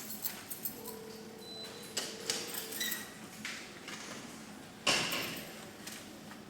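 Keys and a metal apartment mailbox being worked: scattered light clicks and clinks, a short ringing squeak, and one loud sharp clack about five seconds in, as of the small mailbox door being opened or shut.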